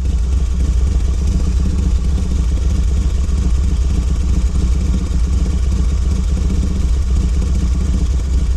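A steady, loud low rumble of a running motor or engine, unchanging throughout.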